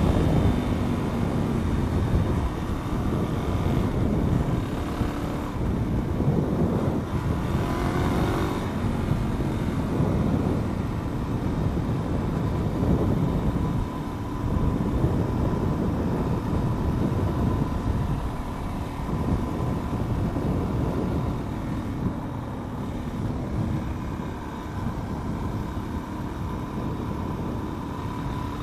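Supermoto motorcycle engine running while riding, its note rising and falling a few times in the first ten seconds, under a steady rush of road and wind noise.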